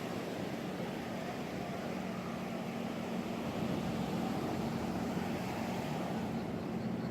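Steady low engine drone over a continuous rushing noise, growing a little louder a few seconds in.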